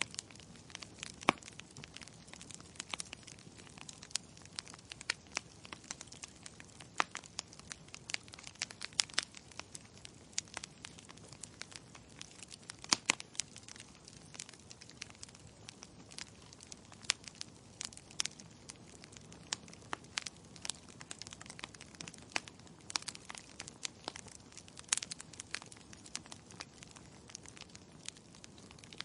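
Wood fire with logs burning in a fireplace: a steady faint hiss with irregular sharp crackles and pops, two louder pops about a second in and near the middle.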